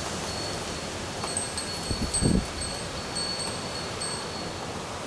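Steady rain hiss with a high, thin ringing tone that comes and goes, and a couple of low thumps about two seconds in.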